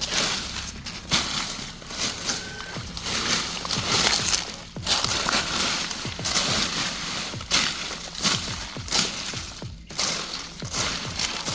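Dry leaf litter rustling and crackling as it is turned over by hand, in irregular bursts.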